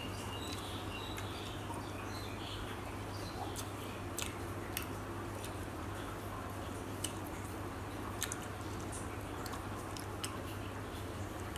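A person chewing food close to the microphone, with sharp clicks now and then over a steady hiss.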